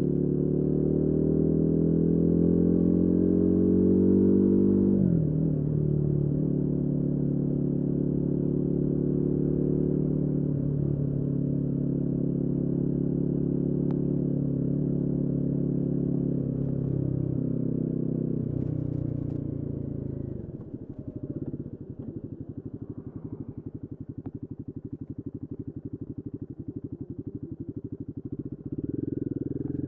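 Royal Enfield Guerrilla 450's 452 cc single-cylinder engine under way. It pulls up through the revs, drops sharply about five seconds in as if shifting up, then holds a steady cruise. Around twenty seconds in it falls back to a lower, quieter, choppier beat, and picks up again at the very end.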